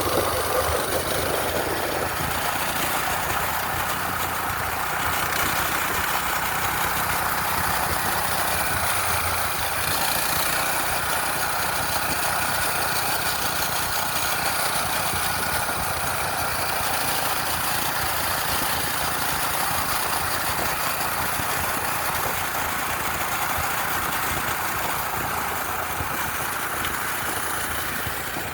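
Small gas engine of a minibike running steadily, under a continuous hiss of riding noise.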